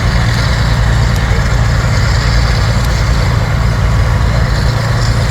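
A large engine running at a steady speed, a loud deep drone that holds even throughout.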